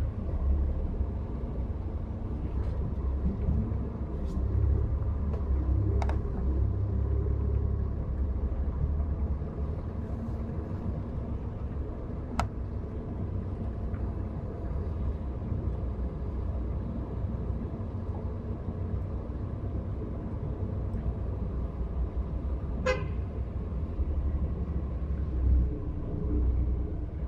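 Steady low rumble of a road vehicle on the move, with a few light clicks and a short horn toot near the end.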